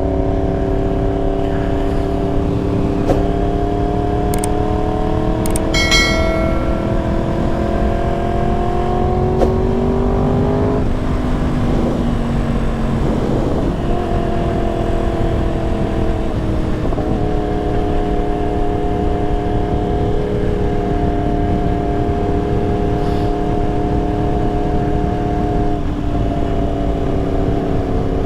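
Yamaha R1's crossplane inline-four with a full exhaust running under way: the engine note rises slowly for about ten seconds, drops and wavers briefly, then holds a steady cruise.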